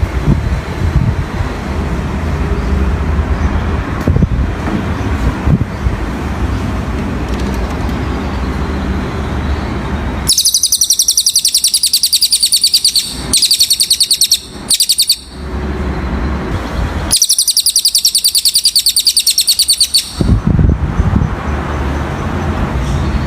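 Cililin bird song: long, very rapid, evenly pulsed high-pitched trills, one from about ten to thirteen seconds in, a few short bursts after it, and another from about seventeen to twenty seconds. Before and after the trills there is a steady low rumble like traffic.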